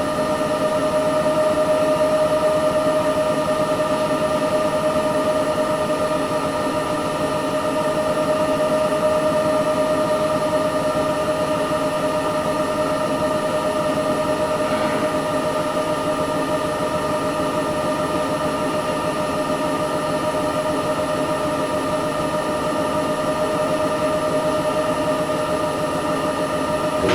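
Candy Smart Inverter CSS4 37TWMB front-loading washing machine with an inverter motor, running with a steady whine over a constant hum.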